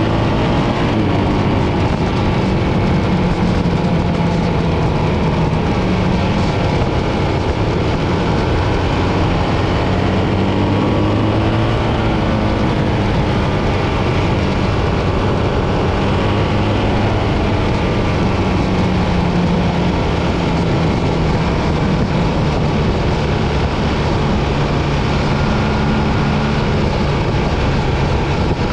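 BMW R 1300 GS boxer-twin motorcycle running under way, its engine note drifting gently up and down over a steady rush of wind and road noise.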